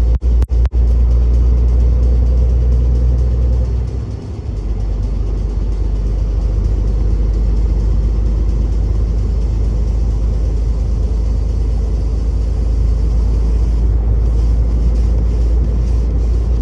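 Truck's diesel engine and tyres on the road, heard from inside the cab as a steady low rumble, dipping briefly about four seconds in.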